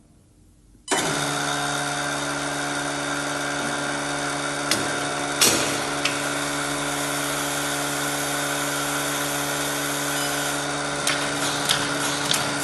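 Capsule filling machine running, setting in abruptly about a second in: a steady motor hum with several fixed tones, two sharp clicks around the middle and a run of quick clicks near the end.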